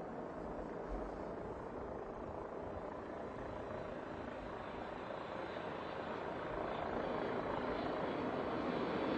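Boeing 747-8's four GEnx turbofan engines on final approach: a steady rushing jet noise that grows louder over the last few seconds as the airliner comes closer.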